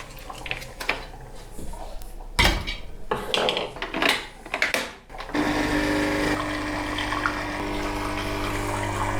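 Kitchen clatter of things being handled and set down, then about five seconds in an electric cooking appliance switches on and runs with a steady hum.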